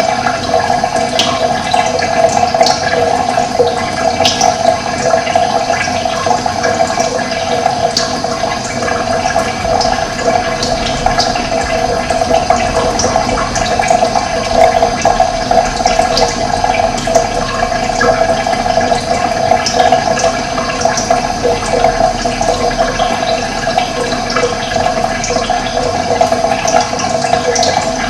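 Running water rushing steadily, with brief bird chirps scattered over it.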